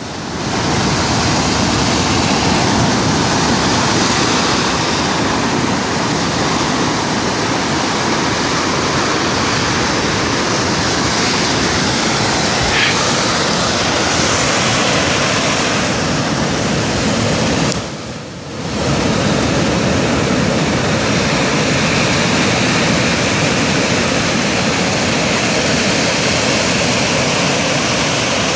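Steady roar of ocean surf breaking on the beach, dipping briefly about two-thirds of the way through.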